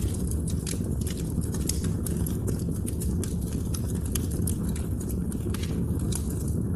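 Wood fire burning: a steady low rumble with frequent irregular sharp crackles and pops, several a second.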